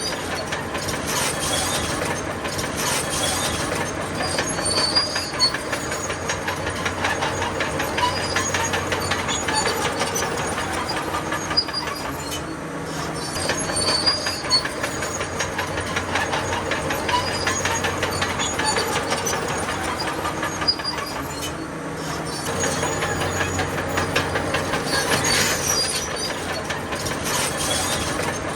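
Crawler bulldozer working: its diesel engine runs steadily under the continuous rapid clanking of the steel tracks, with intermittent high squeals from the track links and rollers.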